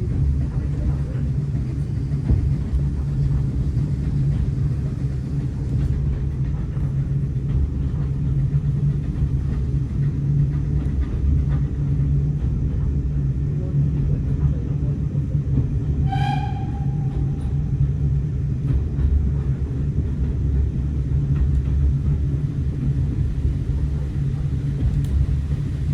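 Steady low rumble of a heritage railway passenger train running along the line, heard from on board. A single brief high-pitched toot sounds about two-thirds of the way through.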